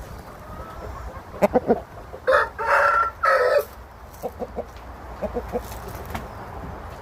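Gamecock rooster crowing once, a loud call in three parts about two seconds in, with short clucks before and after it.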